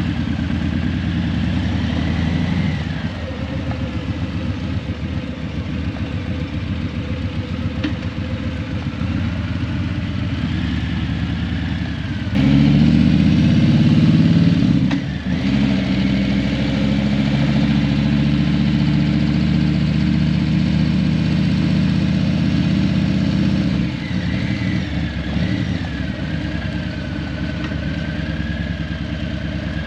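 Harley-Davidson Breakout 117's Milwaukee-Eight 117 V-twin running through Vance & Hines Eliminator 300 slip-on mufflers while riding. It gets louder about twelve seconds in, dips briefly a few seconds later, and settles lower again near the end.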